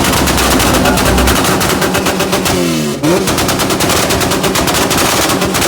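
Vehicle engine held at high revs with a rapid, even crackle like machine-gun fire from the exhaust, typical of bouncing off a rev limiter. It drops briefly about three seconds in, is blipped back up, and falls in pitch near the end.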